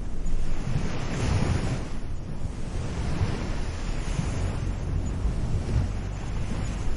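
Gentle waves washing onto a beach, the surf swelling about a second in and again around four seconds. Wind buffets the microphone underneath with a low rumble.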